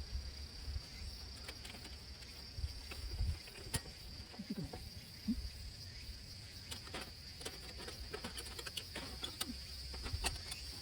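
Steady high-pitched chirring of an insect chorus, typical of crickets, with scattered sharp clicks and a few soft knocks over it.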